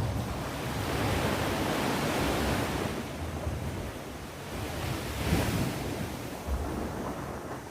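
Sea waves washing onto the shore, a steady rush of surf that swells and eases, with one stronger surge a little past the middle. Wind buffets the microphone.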